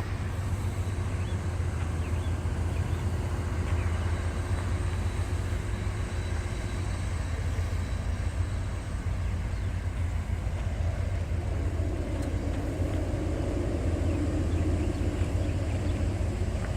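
Steady low engine rumble, with a further rumble joining from about eleven seconds in.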